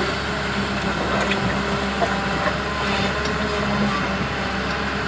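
Hyundai Robex 220LC-9S hydraulic excavator's diesel engine running steadily, with a few faint knocks.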